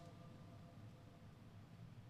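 Near silence: faint room tone with a low hum, and a trace of the imam's voice echoing away at the very start.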